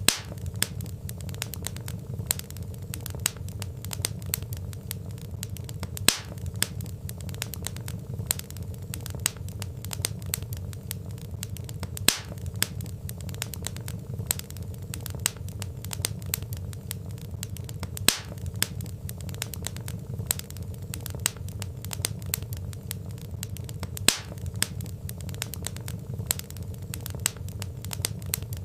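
Wood fire crackling: a steady low rumble of burning logs with many sharp snaps and pops, a louder pop recurring about every six seconds.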